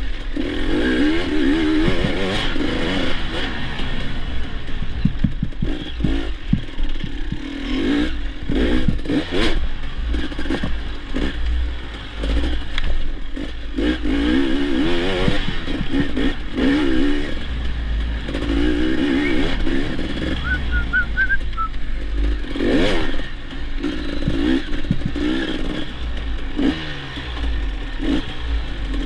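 Dirt bike engine revving up and down repeatedly while being ridden, with frequent clattering knocks and a steady low rumble underneath.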